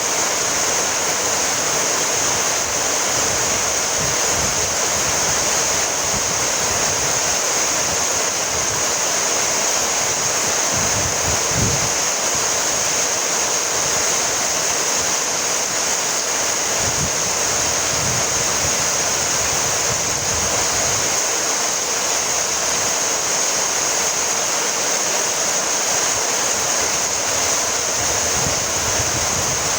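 Steady rainfall, an even unbroken hiss with the most energy high up, and a brief soft low thud about twelve seconds in.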